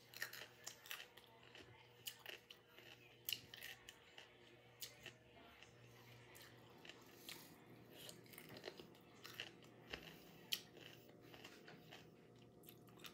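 A person chewing barbecue chicken close to the microphone: soft, irregular wet mouth clicks and small crunches. A faint steady hum runs underneath.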